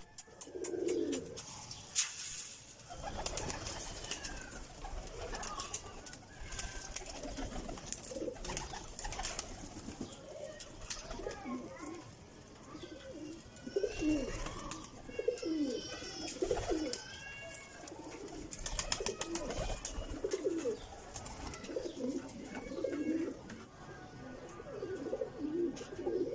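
Domestic pigeons cooing again and again in low, overlapping calls, with a run of higher chirping calls partway through.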